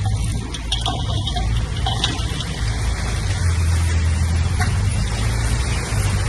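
Heavy diesel earthmoving machine running steadily, a low engine hum with a few light knocks.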